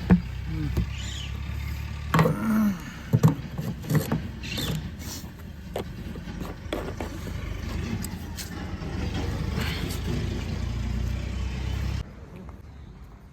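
Vehicle engine running with a steady low drone and scattered knocks and clatter; it cuts off abruptly near the end, leaving a quieter background.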